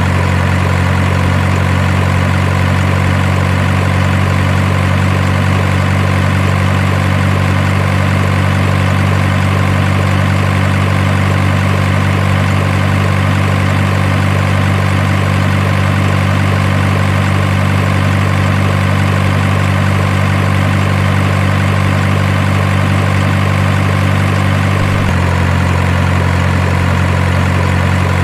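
Truck engine idling steadily, an even low hum with no revving; its tone shifts slightly about 25 seconds in.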